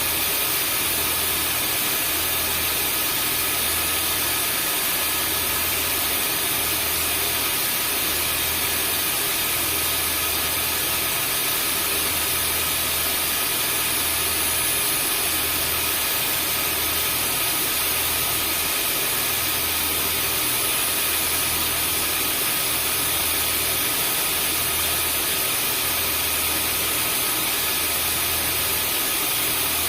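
Vacuum cleaner running steadily: a constant rushing airflow noise with a high motor whine, and a low throb that pulses about once a second.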